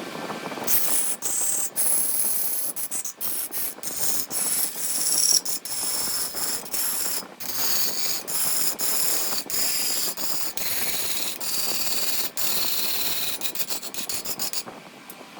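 Wood lathe spinning a large blank while a turning tool cuts it, a steady high-pitched scraping hiss broken by many very short gaps.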